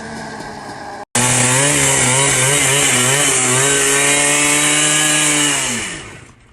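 Motorcycle engine running hard at high revs, its pitch wavering slightly, then dropping and fading away near the end. The sound cuts out abruptly for a moment about a second in.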